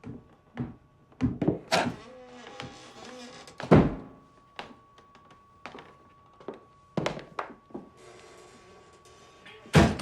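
A reception-desk service bell rings on in a long, steady, unbroken tone, under a series of wooden knocks and thumps. The loudest thump comes about four seconds in, and another comes near the end.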